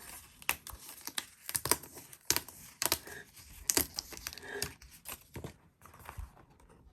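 Paper being handled in a craft journal: irregular crinkles and sharp ticks, about one or two a second.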